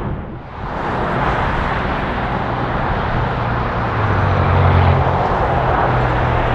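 Jet airliner engines running at an airport, a loud steady rush with a low hum under it; the sound dips briefly just after the start, then holds.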